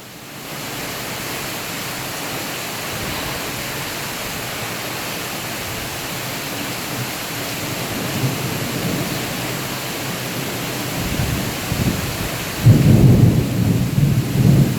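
Thunderstorm: steady heavy rain, with thunder rumbling in from about eight seconds in. It swells into a loud, long rumble near the end.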